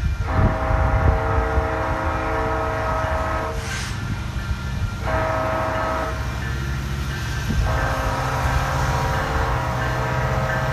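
Locomotive air horn sounding a chord in blasts: a long blast, a short one, then another long one, the grade-crossing pattern. A low rumble runs underneath.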